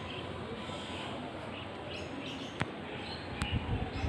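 Birds chirping: a scatter of short high chirps over a steady background hiss. There is a sharp click about two and a half seconds in, another a little later, and a few low bumps near the end.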